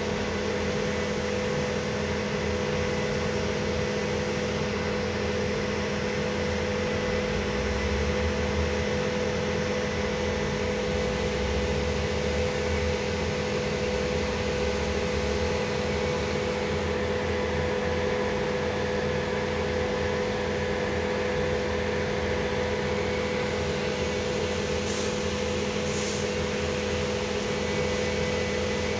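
Cabin noise of a LiAZ-5280 trolleybus: a steady electrical hum with several constant tones over a low rumble, which swells from about 7 to 16 seconds in. Two faint clicks near the end.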